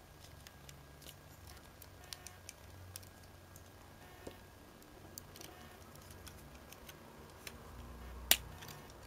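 Light, irregular clicks and taps of hard plastic model-kit parts being handled and pressed together, with one louder snap a little after eight seconds in.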